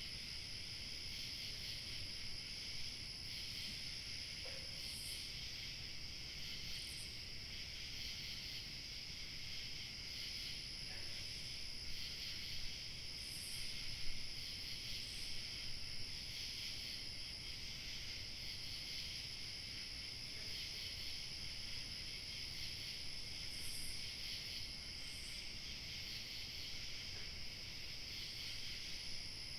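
Evening chorus of crickets chirping steadily, with a thinner, higher trill that drops out and comes back several times.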